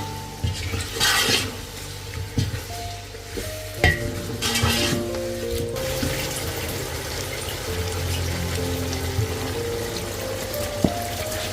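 Food frying in a pan, with two stretches of louder sizzling and stirring, about a second in and about four and a half seconds in, and a couple of sharp taps of a utensil, over soft background music.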